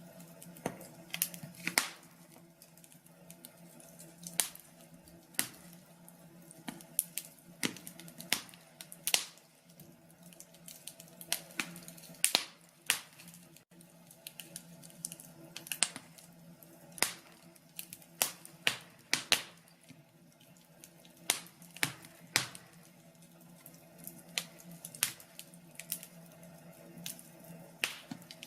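Wood fire crackling in a fireplace: irregular sharp pops and snaps, at times several in quick succession, over a faint steady low hum.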